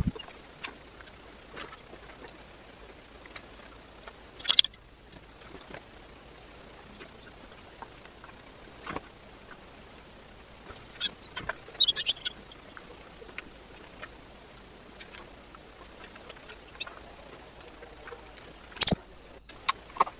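Birds at a feeder: a few short, sharp calls or pecking sounds over a faint steady hiss. One comes about four seconds in, a quick cluster of several around twelve seconds, and the loudest near the end.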